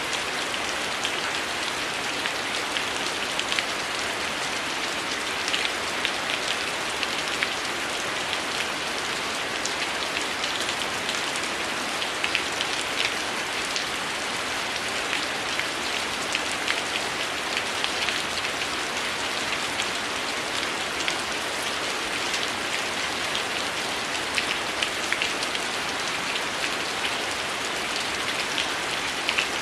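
Heavy rain falling steadily: a constant hiss scattered with many small sharp ticks and patters.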